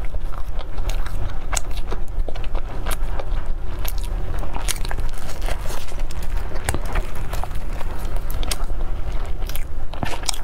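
Close-miked chewing and biting of a soft steamed bun (baozi) filled with shiitake mushroom and diced pork: many short, moist mouth clicks scattered irregularly over a steady low hum.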